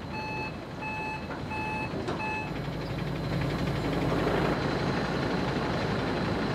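Lorry reversing alarm beeping steadily, about three beeps, stopping about two and a half seconds in, over the lorry's running engine, which carries on alone afterwards.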